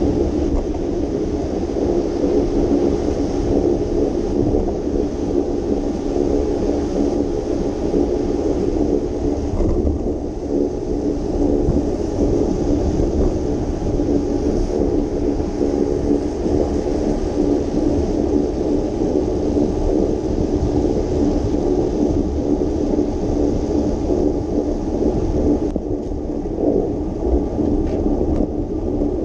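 Steady rushing noise of a bicycle ride: wind buffeting the camera microphone and tyres hissing on wet road, with a low steady hum underneath.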